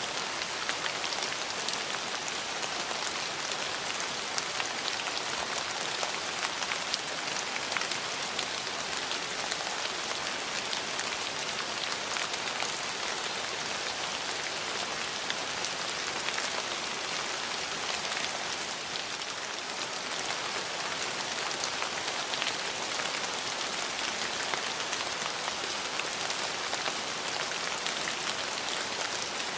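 Steady rain falling on hard surfaces, a dense even hiss with many small drops pattering through it.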